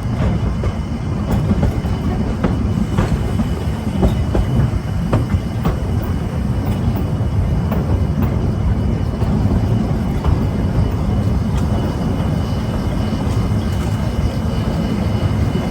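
Narrow-gauge train rolling steadily, with a constant low rumble and irregular clicks of the wheels over the rail joints.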